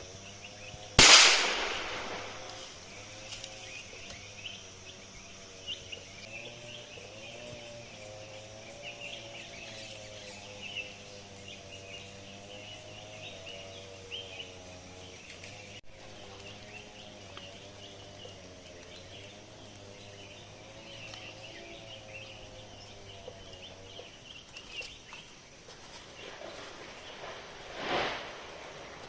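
A single gunshot about a second in, a sharp loud report whose echo fades over a second or so. Insects and birds chirp steadily behind it.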